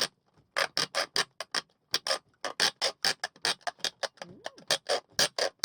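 Hand metal snips cutting through the thin sheet steel of a van's exhaust, a rapid string of sharp metallic clicks, about four or five a second, as each bite of the blades closes.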